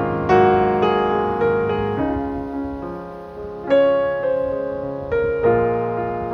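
Background piano music: slow, gentle chords struck every second or so and left to ring and fade.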